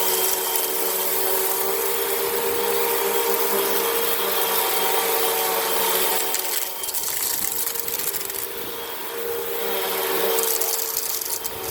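Vacuum cleaner running steadily with a motor whine while it sucks sand out of carpet. The level dips for a couple of seconds from about seven seconds in, then comes back.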